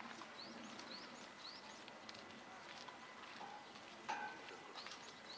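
A small bird gives short rising chirps, three in a row within about a second and a half, then more near the end, over a quiet steady background. A brief louder squeak comes about four seconds in.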